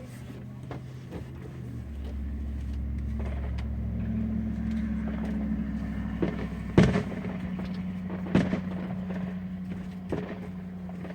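A motor vehicle's engine hum swells in over the first few seconds and then holds steady, while three sharp firework bangs go off in the second half, the first the loudest.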